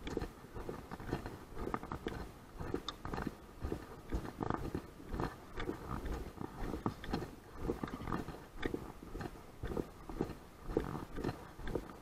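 Strong wind buffeting the microphone: a rough, irregular rumble broken into many short knocks.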